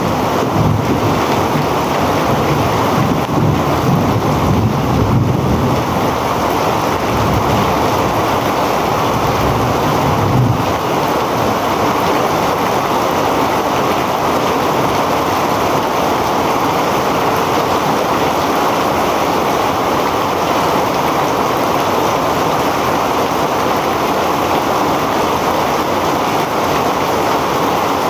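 Heavy rain pouring steadily. For the first ten seconds or so, low rumbling gusts of wind buffet the microphone, then stop abruptly.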